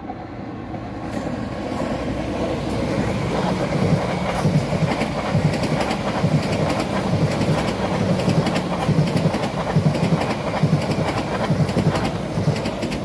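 South Western Railway passenger train passing. It grows louder over the first few seconds, then runs as a steady rumble, with the wheels clicking rapidly over the rail joints.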